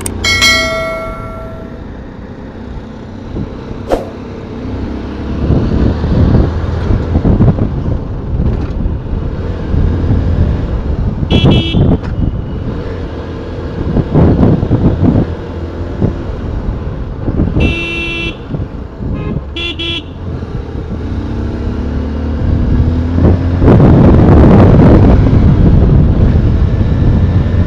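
Motorcycle ride heard through a helmet-side action camera's external microphone: steady low wind buffeting and engine and road noise, getting louder in the last few seconds as speed rises from about 40 to 60 km/h. Short vehicle horn toots sound at the start and again about 12, 18 and 20 seconds in.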